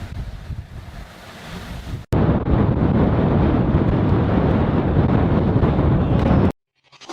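Storm wind buffeting the microphone. About two seconds in there is a cut to a louder, deeper rush of wind noise, which stops abruptly near the end.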